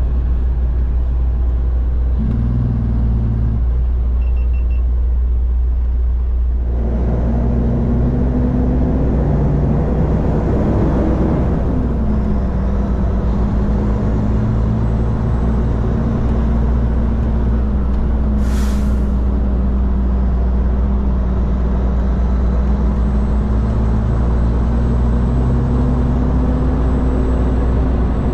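Diesel engine of a road-train prime mover running, heard from inside the cab as a steady deep rumble, its engine note dropping about twelve seconds in and then holding steady. A short hiss of air about eighteen seconds in, typical of a truck's air brakes.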